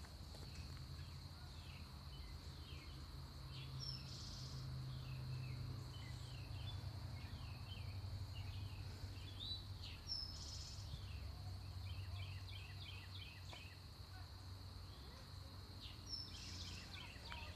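Faint outdoor ambience: birds chirping in short, falling calls over a steady high insect drone, with a low rumble underneath.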